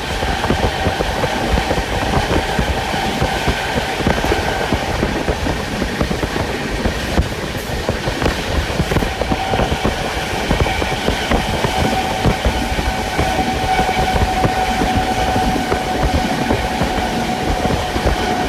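Express train running along the track, heard from inside a passenger coach: a steady rumble of wheels on rails with rapid clickety-clack over the rail joints and a thin steady whine above it.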